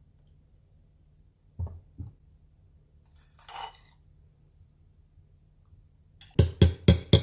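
Dishes or utensils being handled: two soft knocks, a brief rustle, then a quick run of about seven sharp clinks and knocks near the end.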